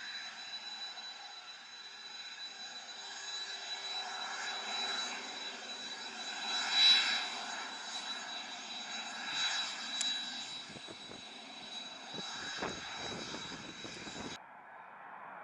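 Business jet's turbofan engines running, a steady high whine over a noisy rush that swells a few times. The sound cuts off suddenly about a second before the end.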